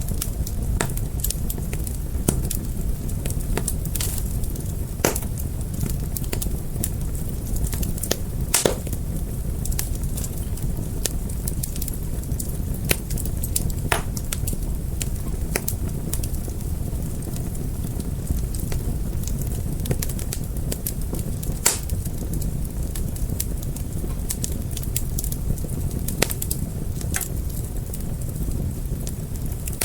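Wood fire crackling, with irregular sharp pops and snaps over a steady low rumble of the flames; a few louder pops stand out, one about a third of the way in and another about two thirds in.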